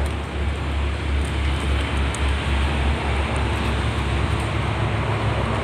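Steady low rumble with a hiss of continuous background noise, the low end swelling and fading unevenly.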